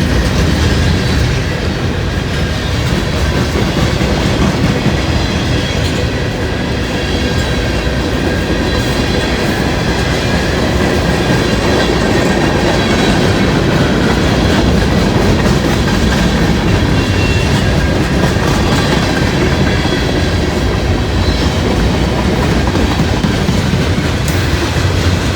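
Cars of a long freight train rolling past close by: a steady rumble with wheels clattering over the rails and a faint high wheel squeal.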